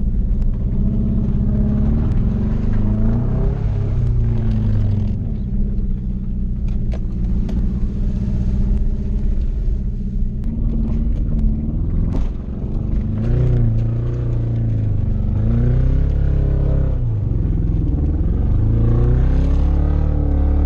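1996 Toyota Celica's four-cylinder engine revving up and down repeatedly as the car is driven hard over rough ground, with scattered knocks and clunks from the car.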